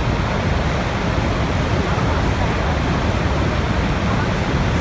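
Steady rush of flowing water, an even, unbroken noise heavy in the low end.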